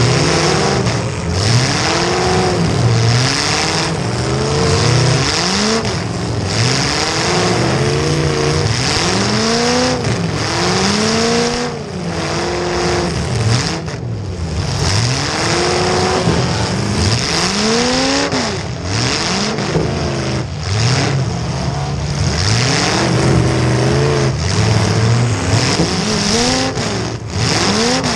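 Demolition derby car engines revving hard, their pitch climbing and falling over and over as the cars accelerate and back off, heard from a camera on one car's hood.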